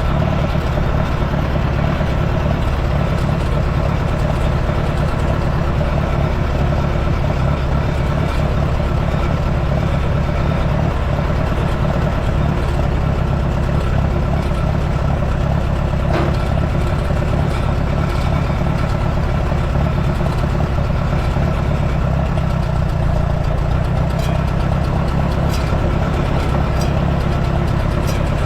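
1948 Allis-Chalmers C tractor's four-cylinder engine running steadily with the PTO engaged, turning a belt-driven feed grinder from the belt pulley. The pulley is running backwards. A few light ticks come near the end.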